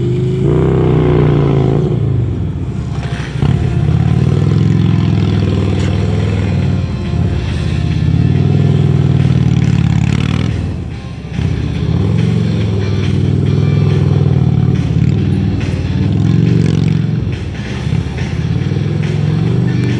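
Police motorcycle engine working through a cone course, its revs rising and falling over and over as the throttle is opened and eased. The level drops briefly several times.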